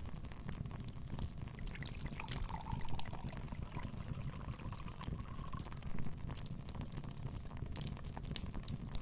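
Wood fire burning in a fireplace: a steady low rumble of flames with irregular sharp crackles and pops. In the middle there is a faint, wavering thin whistle.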